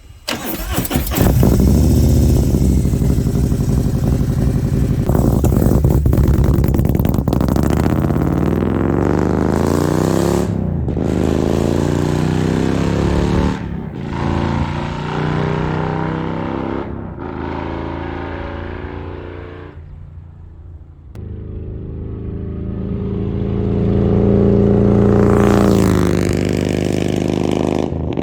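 Harley-Davidson Milwaukee-Eight V-twin with an SS 475 camshaft and Mutazu 2.0 megaphone slip-on mufflers, accelerating hard past on a flyby. The pitch rises through several gear changes, then fades as the bike pulls away. About three quarters of the way through it comes back and grows loud again.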